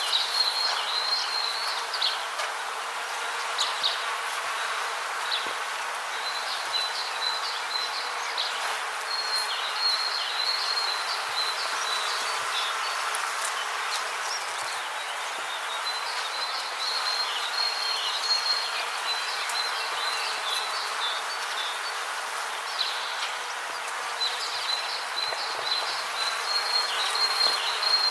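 Rainforest ambience: a steady hiss overlaid with bouts of high chirping trills, each a few seconds long, recurring about every seven or eight seconds.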